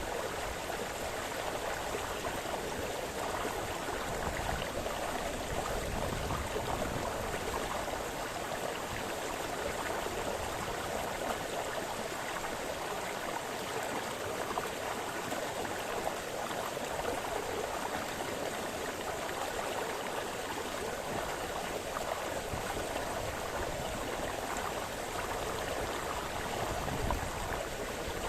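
Small forest brook splashing and babbling over stones, a steady continuous rush of water.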